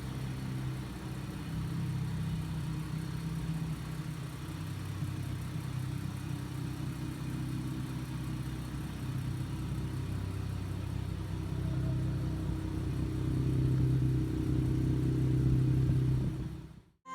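Infiniti Q60 Red Sport 400's 3.0 twin-turbo V6 running steadily through a NISMO sport exhaust with no mufflers, a low drone that grows slightly louder later on and cuts off suddenly near the end.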